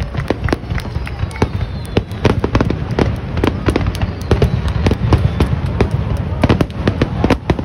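Aerial fireworks bursting: a rapid, irregular string of loud bangs and crackles, several a second, over a steady low rumble.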